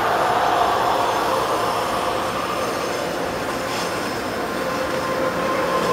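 Electric commuter train rolling on the rails: a steady rumble with thin squealing tones from the wheels, growing louder near the end.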